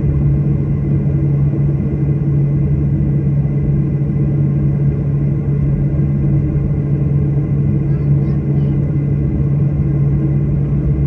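Steady airliner cabin noise: a constant low drone from the jet engines and airflow, with a thin steady high whine over it.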